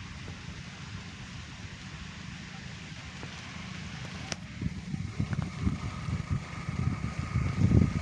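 Steady low rush of the flooded Mahanadi river, with wind buffeting the microphone in gusts from about halfway through.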